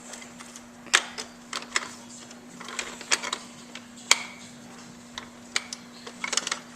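Irregular sharp clicks and taps of hard plastic toy pieces being handled, over a steady low hum.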